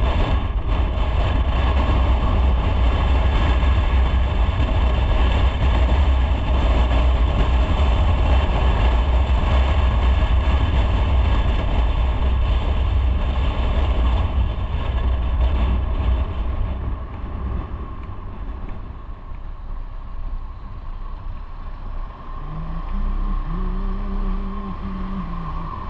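Motorcycle being ridden at speed, its engine running under a heavy rush of wind noise. About 17 seconds in it slows and the rumble and wind drop. A low, steady engine note stands out near the end.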